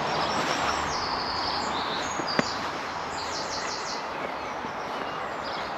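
Small birds chirping and trilling over a steady outdoor hiss, with a single sharp click about two and a half seconds in.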